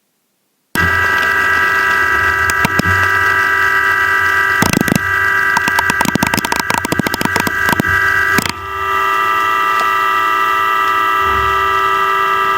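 4-axis CNC milling machine cutting at high speed: a steady, high-pitched whine of several tones from the spindle and cutter. It starts abruptly about a second in, goes into rapid clattering through the middle, dips briefly, and then the steady whine carries on.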